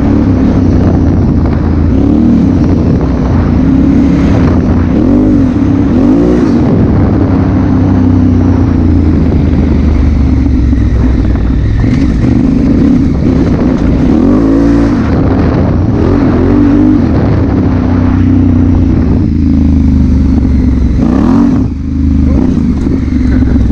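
Honda Africa Twin CRF1000L's parallel-twin engine running at speed, its pitch swinging up and down several times as the throttle is worked and gears change, under a steady rush of wind noise.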